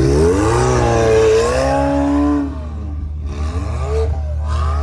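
McLaren sports car engine revving hard as the car drives in the snow: the pitch climbs over about a second, holds, drops off about two and a half seconds in, then rises again in two short pulls.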